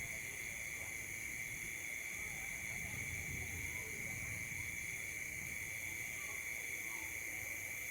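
Steady night chorus of crickets and other insects, a continuous high-pitched trilling at several pitches that never lets up, with a faint low rumble underneath.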